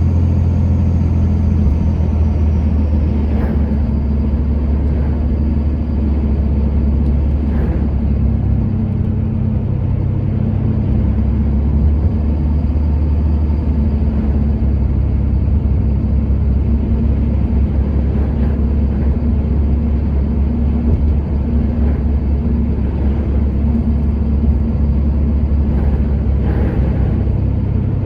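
Motor vehicle driving at a steady speed: a continuous low engine and road rumble.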